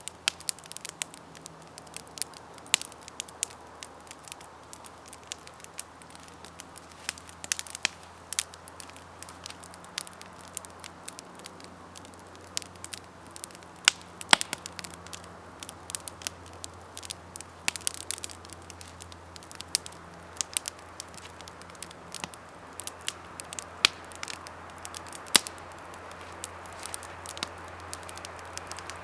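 Campfire burning with a steady hiss and irregular crackles and sharp pops as the wood burns.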